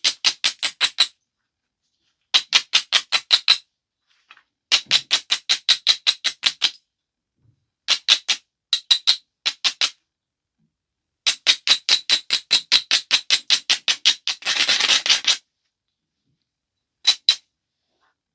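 Stone biface edge being abraded: quick back-and-forth scraping strokes, about seven a second, in runs of one to four seconds with short pauses. About fifteen seconds in there is a denser, harsher rub, and two last strokes come near the end.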